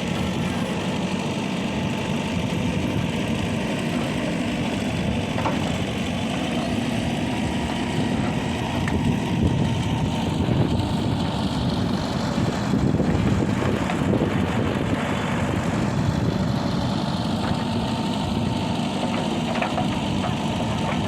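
Heavy diesel machinery engine running steadily and getting louder twice in the middle, with a few faint knocks.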